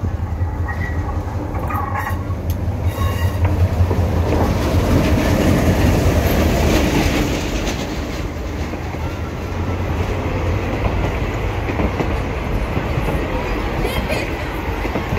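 Passenger train rolling past at close range, its coaches making a loud, steady low rumble on the track that builds about four seconds in.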